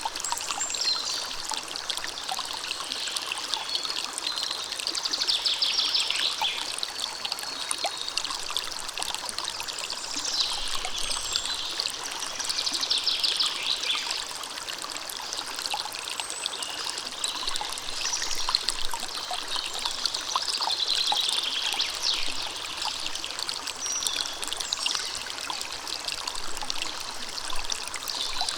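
River water running steadily over rocks in a continuous rush and trickle, with birds singing now and then above it.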